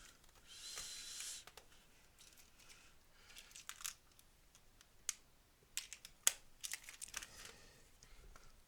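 Small plastic and metal model wheel parts and tiny screws being handled on a work surface: a brief rustle about a second in, then scattered light clicks and scrapes.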